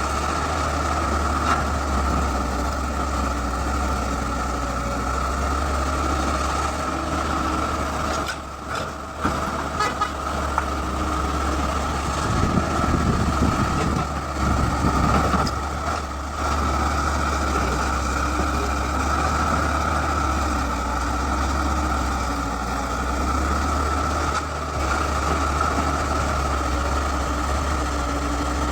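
Excavator's heavy diesel engine running steadily, with a constant high whine over the low engine note. It grows louder and rougher for a few seconds about midway.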